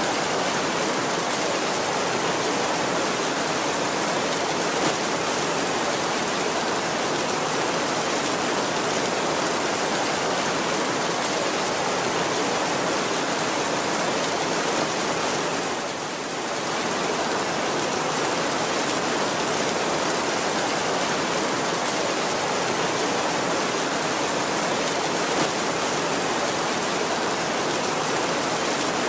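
Heavy rain drumming on a tin roof: a steady, dense hiss with no thunder, dipping briefly about halfway through.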